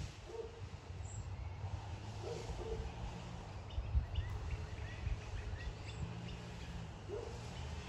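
Birds calling in the surrounding trees: short lower calls, several in pairs, and scattered higher chirps, over a steady low rumble.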